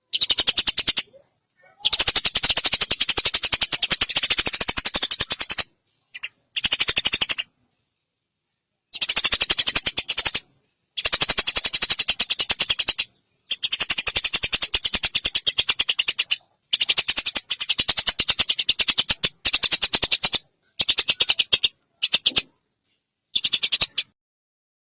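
Eurasian tree sparrows' rapid, high-pitched fighting chatter, in bursts of one to four seconds that cut off abruptly into silence between them.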